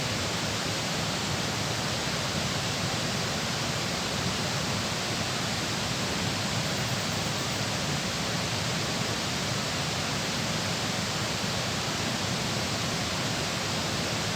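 Steady rush of water flowing over or through a dam, an even hiss that does not change.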